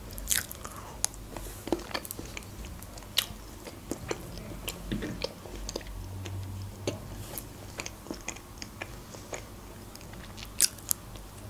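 Close-miked eating of cream-filled eclairs: chewing with many short mouth clicks and smacks scattered throughout, two louder ones near the end.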